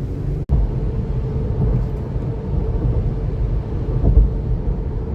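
Steady low road and engine rumble inside a car's cabin while driving at freeway speed, with a brief break in the sound about half a second in.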